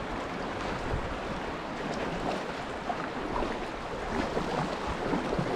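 Creek water rushing and splashing around a kayak, with wind noise on the microphone.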